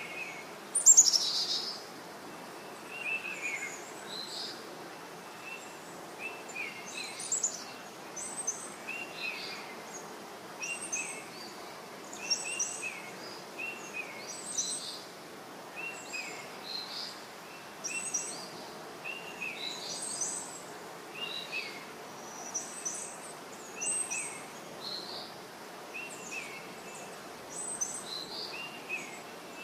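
A bird chirping: short, high calls repeated every second or two, with a louder note sweeping downward about a second in.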